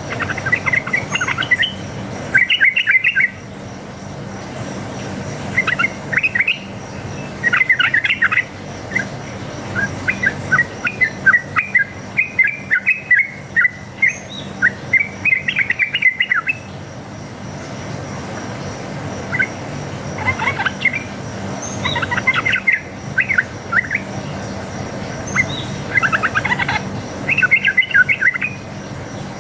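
Yellow-vented bulbuls singing: bursts of rapid, bubbly chirping notes that come every second or two with short pauses between. A steady low hum runs underneath.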